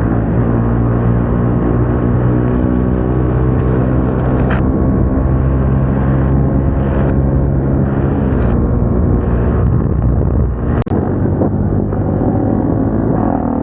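Single-cylinder motorcycle engine with an aftermarket exhaust running at a steady pitch while riding. About eleven seconds in the sound dips briefly with a sharp click.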